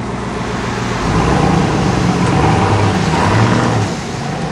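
Motor vehicle engine running, a little louder for a few seconds in the middle, with road noise.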